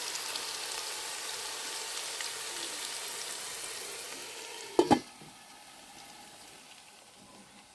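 Food frying in a pan, a steady hissing sizzle. About five seconds in come two quick sharp knocks, and after them the sizzle is quieter and fades.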